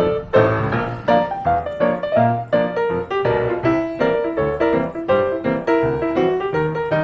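Background music: a piano playing a busy run of notes.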